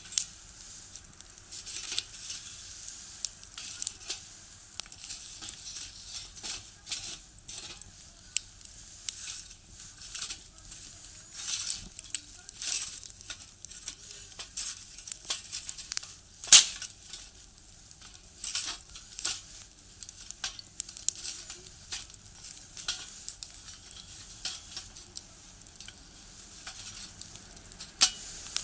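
Firewood crackling in a small box stove: irregular sharp pops and snaps over a faint hiss, with the loudest pop about 16 seconds in.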